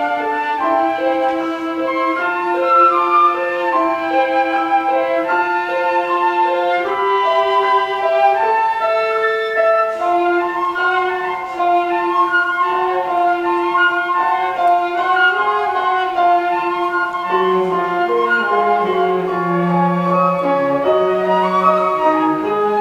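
Flute, cello and piano trio playing a contemporary chamber piece, the flute carrying a line of held notes over the other instruments. A lower voice comes in about three-quarters of the way through.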